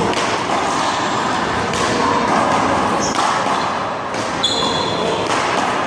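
Rubber handball being slapped by hand and smacking off the wall and pavement during a rally: several sharp smacks at uneven intervals over steady background noise.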